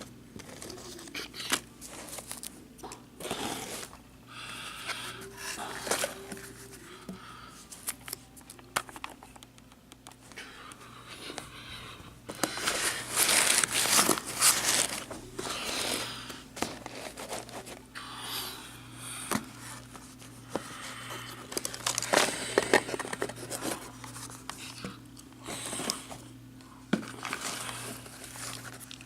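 Packaging crinkling and rustling as it is handled, in irregular bursts with scrapes and sharp clicks, loudest about halfway through. A faint steady hum runs underneath.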